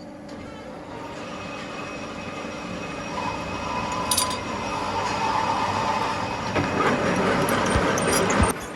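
Factory machinery running, getting louder, with metallic clinks and knocks; the noise cuts off suddenly near the end.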